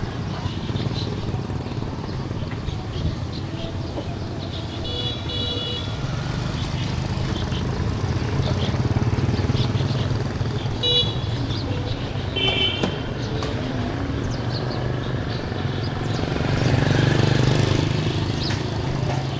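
Street traffic: motorbike engines running by, swelling twice as vehicles pass, with a few short horn beeps.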